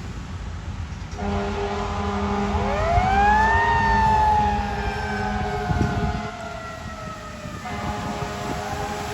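Fire apparatus responding with warning devices: steady air-horn-like blasts start about a second in, and a mechanical siren winds up to a peak and then slowly coasts down in pitch, ending near the end.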